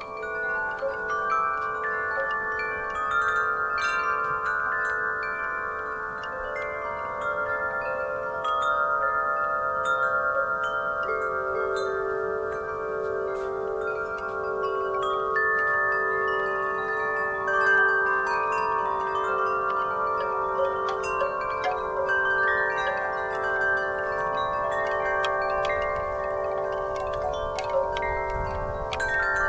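Wind chimes ringing in a breeze: metal tubes struck often and irregularly, their tones overlapping in a long, sustained shimmer between the midrange and the upper range.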